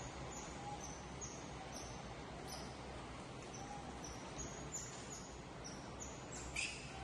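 Small birds chirping: short, high, falling chirps about twice a second over a steady outdoor hiss, with one louder squeak near the end.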